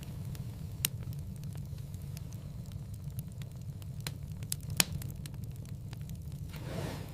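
Wood fire in a fireplace crackling: many small sharp snaps, with two louder pops about one second in and nearly five seconds in, over a steady low rumble.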